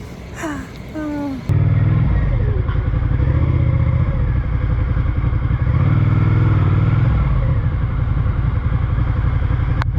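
Motorcycle engine running under way, loud and low, its pitch rising and falling with the throttle. It cuts in abruptly about a second and a half in, after a brief voice.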